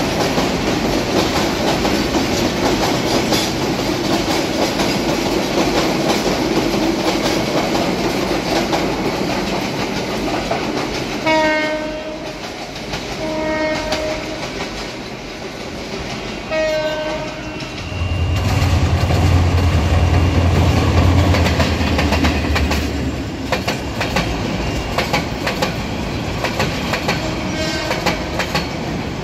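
Passenger train running past with a steady rumble and clatter of wheels on the rails, its diesel locomotive horn sounding three short blasts a few seconds apart around the middle. A loud, deep low drone follows for about five seconds.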